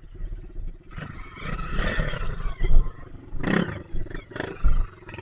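Trail motorcycle engine running and revved in surges, loudest in two short bursts near the end, as the rider tries to push the bike through the mud.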